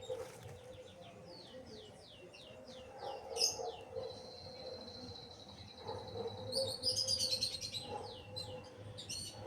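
Small songbirds singing. A run of quick falling chirps is followed about four seconds in by a long steady high note, then a burst of rapid chirping and more falling notes.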